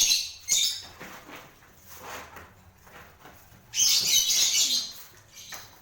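Lovebirds chattering in high-pitched, shrill chirps: a burst at the start, a short one about half a second in, and a longer, louder burst of about a second near the four-second mark.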